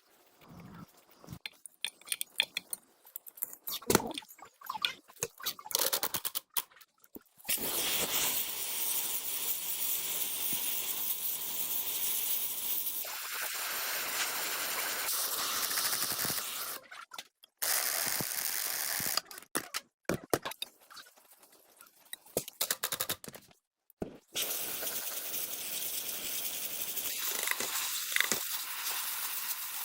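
Workshop work on an old generator: scattered clicks and knocks for the first few seconds, then a steady hissing noise that stops and restarts abruptly several times.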